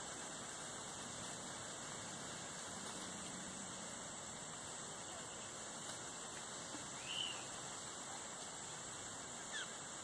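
Steady hiss of outdoor background noise, with two brief bird chirps: a short note about seven seconds in and a quick falling chirp near the end.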